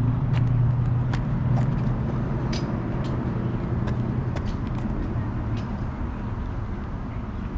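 Road traffic heard from a bicycle: a motor vehicle's engine hums close by at first and fades after about two seconds, over a steady rushing noise, with scattered small clicks and ticks.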